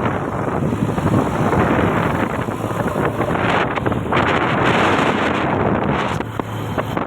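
Diesel engine of heavy machinery running steadily under a dense rumbling noise, with wind buffeting the microphone.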